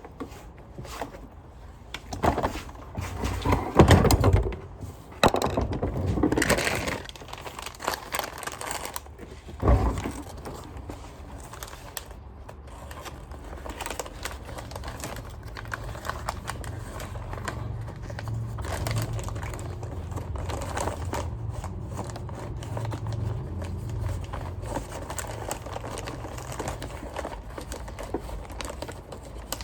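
Hands working on a Sanitaire upright vacuum's plastic parts: rustling, clicking and knocking, with the loudest knocks about four and ten seconds in, then quieter handling over a low steady rumble.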